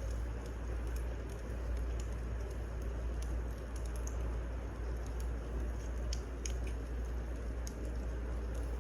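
Wood fire crackling: a steady low rumble of burning with sparse, irregular sharp pops and snaps.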